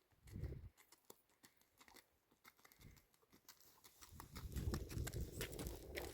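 Donkey's hooves clopping on stony ground: scattered clicks at first, then a denser, steadier run of steps over a low rumble from about four seconds in.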